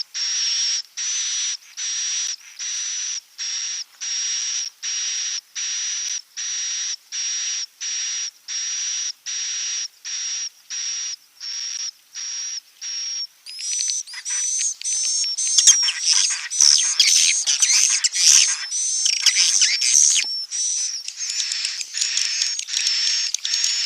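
Swiftlet calls from a nest-luring recording: a regular series of short, high buzzy chirps, about two a second, then, a little past halfway, a sudden switch to a dense chatter of many overlapping twittering calls, as of a flock.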